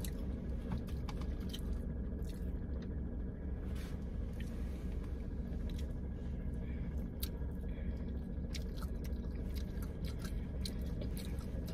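A person chewing and biting into sushi rolls, with scattered small crunches and mouth clicks over a steady low hum.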